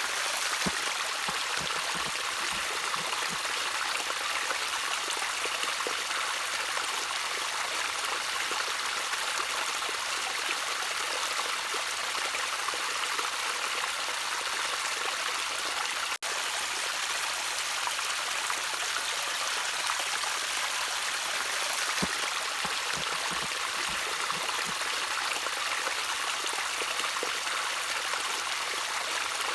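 Small stream of water trickling steadily, a bright even rush with a few low gurgles now and then. There is a momentary break in the sound about halfway through.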